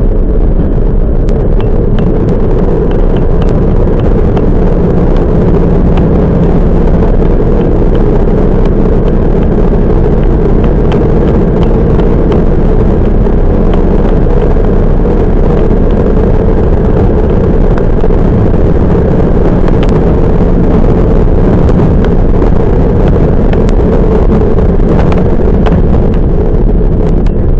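Toyama Chiho Railway 10030-series electric train running along the line, heard from inside the car: a loud, steady rumble of wheels on rail and running gear, with a few faint clicks.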